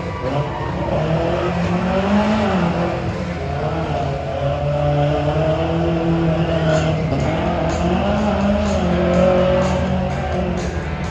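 1983 Ford Ranger pickup's engine revving hard. Its pitch rises and falls several times as the throttle is worked through a timed off-road obstacle run.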